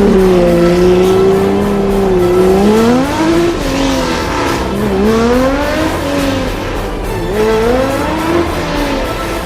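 Car engine idling fast, then revved in several throttle blips, its pitch rising and falling a few times from about three seconds in. Background music with a steady beat runs underneath.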